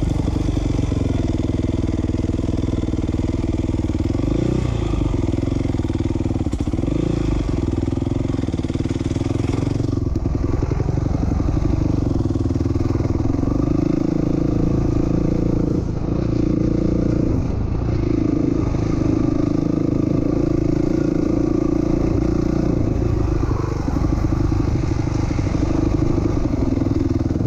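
A 2007 450R motocross bike's four-stroke single-cylinder engine running hard under way, its pitch dropping and climbing again several times as the throttle is rolled off and back on.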